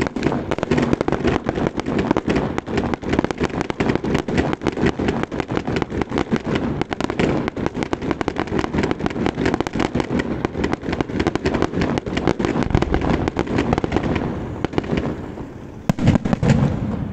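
Fireworks display: a dense, rapid crackle of bursting shells, many reports a second, thinning briefly near the end before a louder final flurry of bangs.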